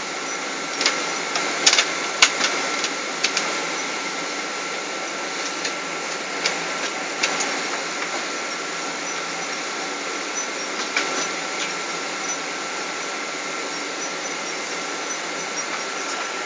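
Steady cabin noise inside a Boeing 777 airliner on the ground before takeoff, air conditioning and engines at idle, with a steady high whine. Scattered light clicks and knocks come over it, most of them in the first few seconds.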